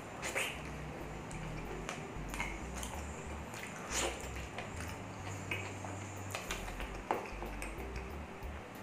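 Close-up eating sounds: a man chewing pork ribs in caldereta sauce eaten by hand, with scattered wet mouth smacks and clicks as he bites and pulls meat off the bone.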